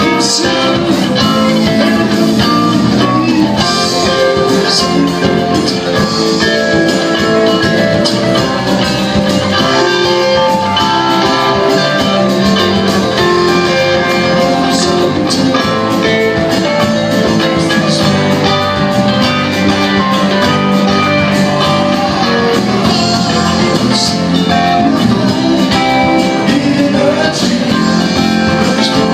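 A live band playing a song, with guitar and singing.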